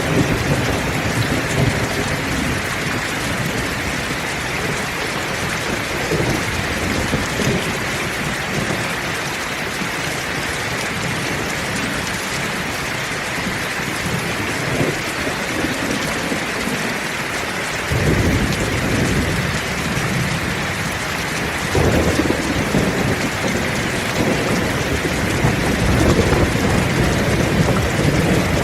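Heavy rain falling steadily, with low rolling thunder. The rumbles come in near the start, again about two-thirds through, and carry on to the end.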